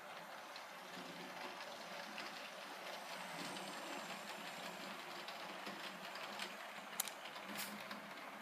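Hornby Santa's Express model train running on its track: a faint, steady mechanical whirr with light clicking, and a couple of sharper clicks near the end.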